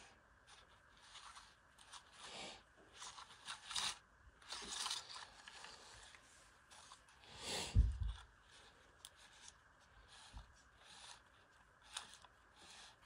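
Nylon trimmer line being wound by hand onto a Homelite string trimmer's plastic spool: irregular scraping and rustling strokes, with a heavier knock about eight seconds in.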